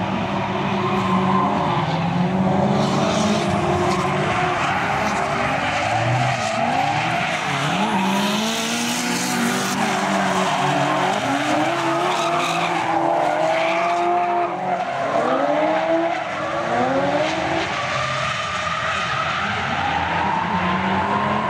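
V8-swapped BMW E30 drifting: the engine revs rise and fall again and again as the car powerslides, with tyres squealing and skidding throughout.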